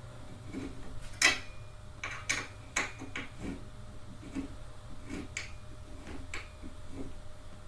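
Irregular sharp clicks and light knocks of metal hardware and a tool being handled while fitting gaming-chair parts, the loudest about a second in.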